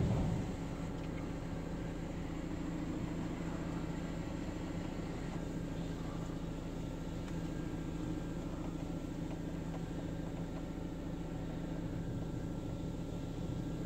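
Steady low mechanical hum with a faint hiss, heard from inside a car's cabin in a gantry car wash between spray passes.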